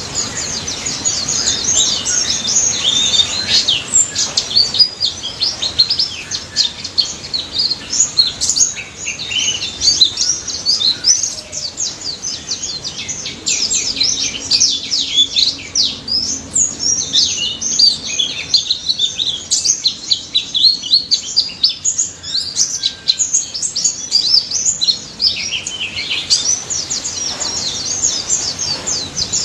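Pleci (white-eye) birds singing in dense, rapid, high-pitched twittering chirps and short whistled sweeps, with a few brief thinner spells.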